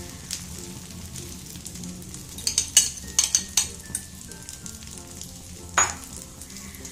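Egg and vermicelli omelette sizzling gently in oil on a flat tawa over a low flame. Sharp metal clicks of a fork against the pan come in a cluster about two and a half to three and a half seconds in, and once more near the end.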